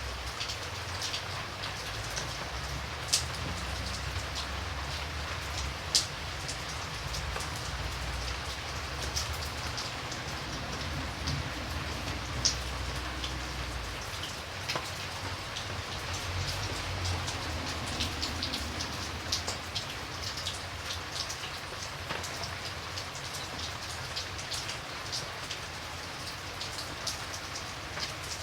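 Steady rain falling, with many distinct drops ticking sharply on a surface. A few single drops land louder, and a low rumble under the rain fades out about halfway through.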